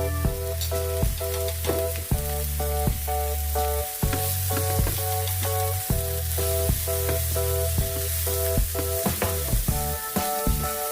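Food sizzling as it fries and is stirred in a pan, the hiss growing stronger about four seconds in, under instrumental background music with a bass line and a regular beat.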